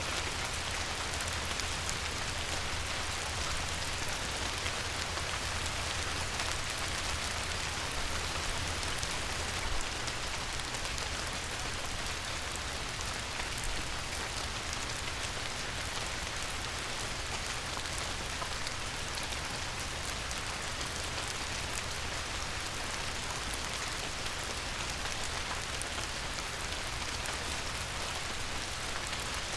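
Light rain falling on a river, a steady hiss dotted with many fine drop patters.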